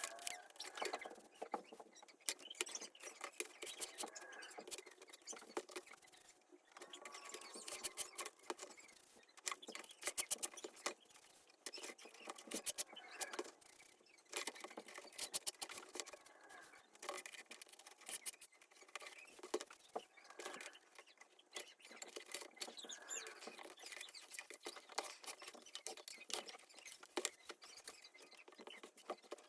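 Faint, fast, dense clicking and rustling with short high squeaks, from leather being handled and laced while restoring a cowhide baseball glove, sped up with the timelapse.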